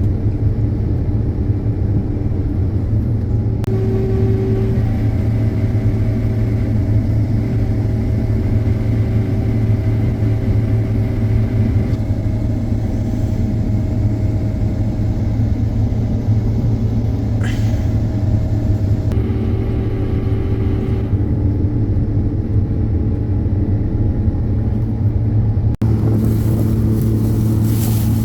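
A large farm machine's engine running steadily under load, a constant deep hum with steady whining tones above it. It drops out for an instant near the end.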